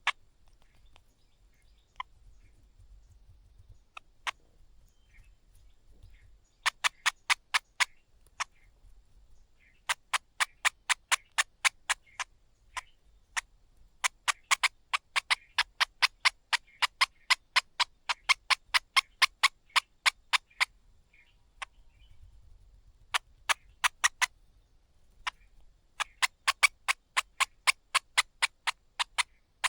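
Streaked spiderhunter calling: bouts of sharp, clipped notes repeated about five a second, starting and stopping several times.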